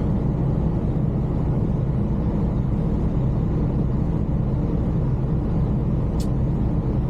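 Semi-truck diesel engine idling steadily, with a single sharp click about six seconds in.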